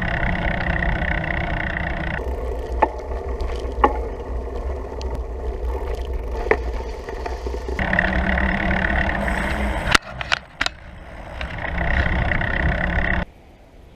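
Steady wind and road rush from riding a bicycle, with a few sharp clicks. The rush drops out and returns abruptly several times and stops short near the end.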